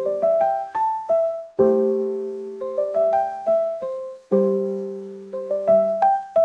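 Lofi instrumental music: soft electric piano chords struck every second or so, each ringing and fading, with a short melody of single notes between them.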